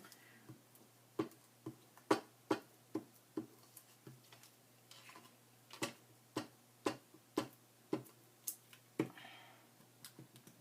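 A run of sharp clicks and taps, irregularly spaced at about two a second, from craft materials and tools being handled on a work table.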